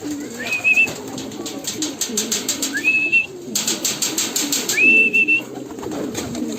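Pigeons cooing in a loft, with a rapid flutter of wing flaps, strongest about halfway through. Three short whistled notes, each rising and then holding, come about two seconds apart.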